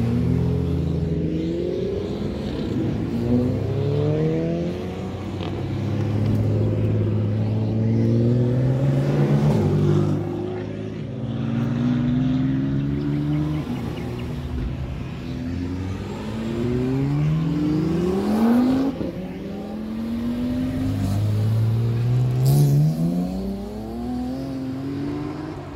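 A string of cars accelerating away onto the track one after another. Each engine revs up in pitch, drops at a gear change and climbs again as it pulls away.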